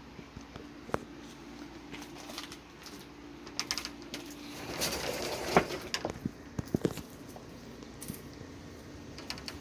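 Chickens clucking softly amid scattered sharp clicks and scratching sounds, busiest about five to seven seconds in, over a steady low hum.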